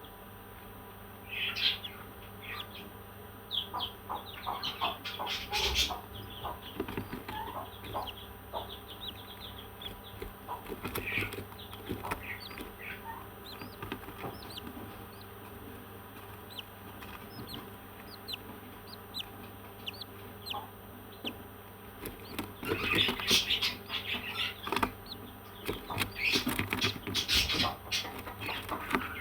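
Parrots chirping and squawking in many short, scattered calls, growing busier and louder about three-quarters of the way through.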